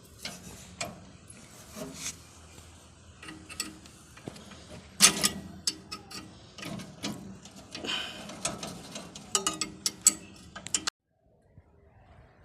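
Metal tools working on metal parts: irregular clicks, knocks and ratchet-like clatter, some strikes ringing briefly. The sound cuts off abruptly near the end.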